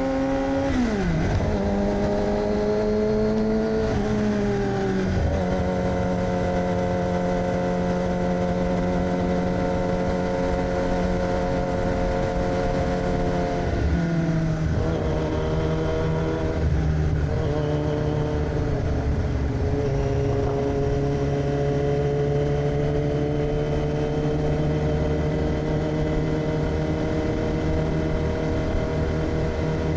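2006 Yamaha R6's 600 cc inline-four with an AR aftermarket exhaust, ridden on the road. The engine note drops sharply about a second in and again about five seconds in, holds a steady pitch for long stretches, dips slightly about halfway through and again later, then slowly rises near the end.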